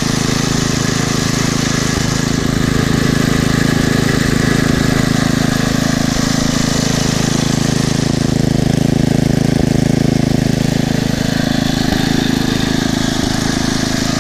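5 hp Briggs & Stratton horizontal-shaft single-cylinder engine on a garden tiller, running steadily without surging. It has a new spark plug, a new air filter, fresh oil and a slightly opened carburettor mixture screw, and it sounds really good.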